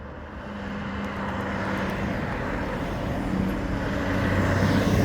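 A motor vehicle approaching along the road, its engine hum and tyre noise growing steadily louder as it comes on fast.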